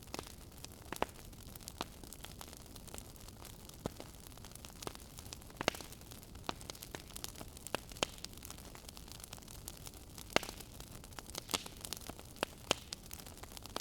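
Wood fire crackling in a fireplace: irregular sharp pops and snaps, a few louder ones, over a soft steady hiss of burning.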